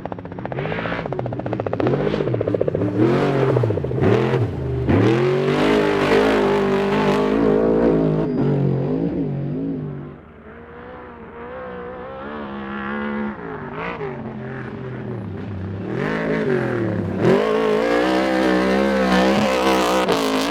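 Desert-racing trophy truck engines revving hard off-road. The pitch swoops up and down with repeated throttle lifts and gear changes. The sound drops away sharply about halfway through, then builds again as another truck comes on loud near the end.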